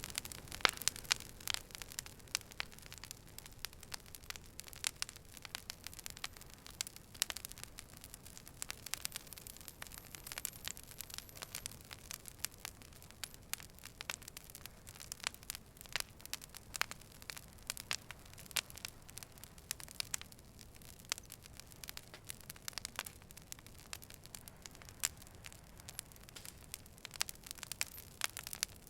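Wood fire burning, with irregular sharp crackles and pops, several a second, over a low steady hiss.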